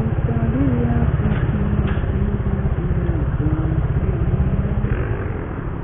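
Motorcycle engine running steadily on the move, a rapid low pulsing with an engine note that wavers slightly in pitch and eases a little near the end.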